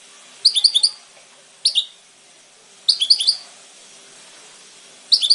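European goldfinch singing: four short bursts of quick, high twittering notes, separated by pauses of a second or two.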